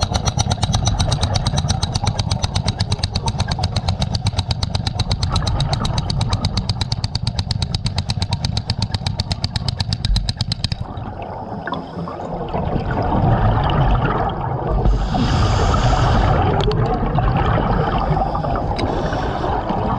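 Hydraulic hammer drill hammering into concrete, a fast even train of blows that stops suddenly about eleven seconds in. A low rumble and a burst of hiss follow.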